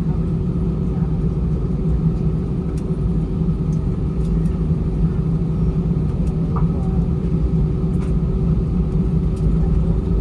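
Cabin noise of an Airbus A320 taxiing: a steady low rumble with a constant hum from its CFM56-5B engines at idle and the aircraft rolling, with a few faint ticks.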